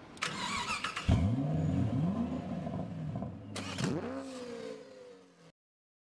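Car engine sound effect for a logo sting: a hiss sweep, then three quick revs rising in pitch, another hiss sweep, and a last rev that falls back and fades, cutting off shortly before the end.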